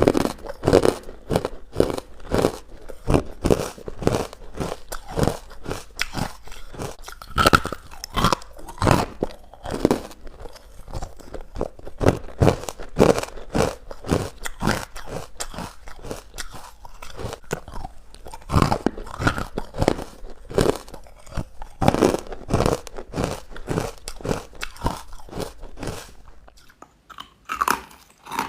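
Close-up chewing of chalky, powdery carbonated ice bites: a steady run of crisp crunches, one to two a second.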